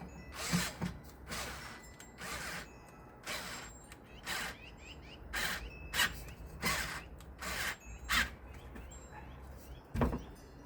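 Hand tool worked in short ratcheting strokes, about one a second, as screws on the ceiling fan mounting are turned. A sharper knock comes near the end.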